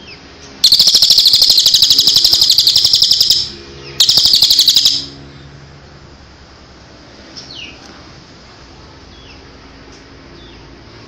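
Songbird song for training competition birds: a loud, rapid high trill lasting about three seconds, a second shorter trill after a brief pause, then faint short downward chirps.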